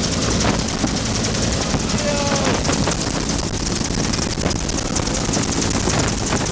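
Bell UH-1 Huey helicopter in flight: turbine engine and two-bladed main rotor running, with a rapid, even beat from the rotor blades over a steady low hum.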